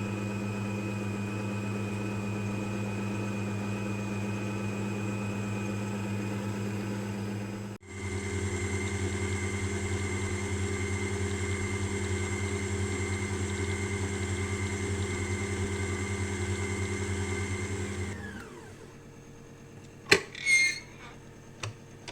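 Electric mixer motor running steadily with a high whine, beating sponge cake batter, with a brief break about eight seconds in. Near the end it is switched off and winds down, followed by a couple of sharp clinks.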